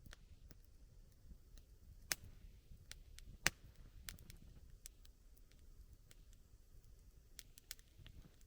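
Wood campfire crackling, with scattered sharp pops and clicks over a faint low rumble. Two louder pops come about two seconds and three and a half seconds in.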